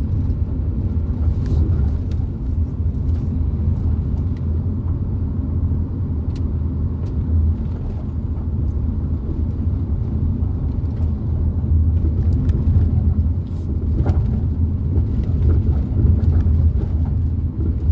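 Car driving slowly, heard from inside the cabin: a steady low rumble of engine and road noise, with a few faint ticks.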